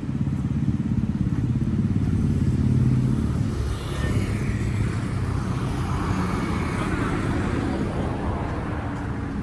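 A motor vehicle's engine running steadily with a low hum, swelling slightly about three seconds in and then easing.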